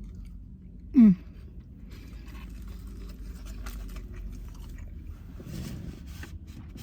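A person chewing a mouthful of sandwich, with soft crunching and clicking mouth sounds. About a second in comes one short, loud vocal sound of pleasure that falls in pitch.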